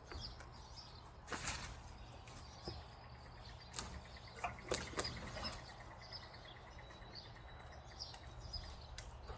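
Faint outdoor background with small birds chirping now and then, a low steady hum, and a few light knocks and rustles, loudest a little before and after the middle.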